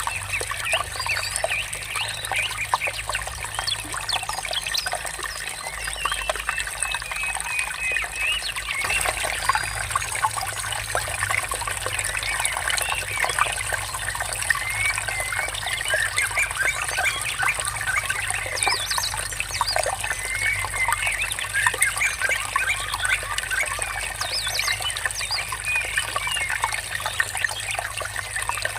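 Running water trickling with a steady murmur, and birds chirping many short calls over it.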